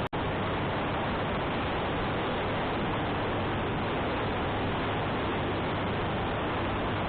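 Steady wind noise rushing over the microphone of a moving motorcycle, with the engine running low underneath. The sound drops out for a split second just after the start.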